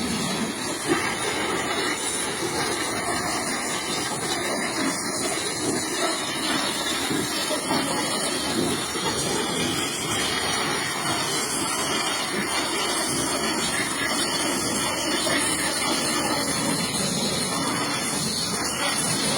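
Pressure washer spraying a steady high-pressure jet of water against a mud-covered truck, a continuous hiss.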